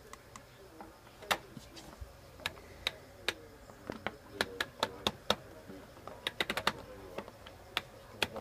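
Irregular sharp clicks and taps, about two dozen, with a quick run of them a little after halfway: the controls of a washing machine being clicked and pressed.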